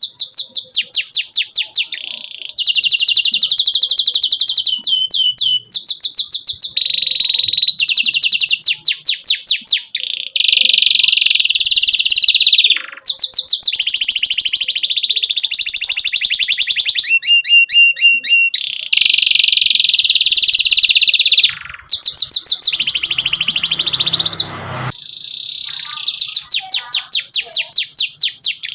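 Domestic canary in full song: a long, almost unbroken run of fast repeated-note trills and rolls, changing to a new trill every second or two with barely a pause.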